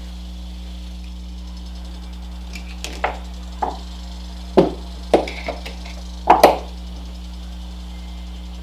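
About seven sharp knocks and taps of parts being handled and set down at a workbench, uneven in spacing, in the middle of the stretch. A steady low hum runs underneath.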